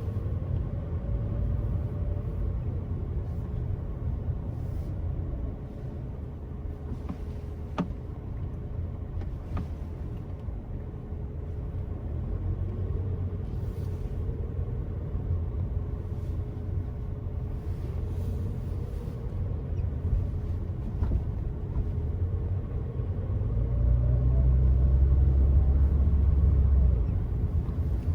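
Car driving along a road: a steady low rumble of engine and tyre noise with a faint steady hum. It grows louder for a few seconds near the end.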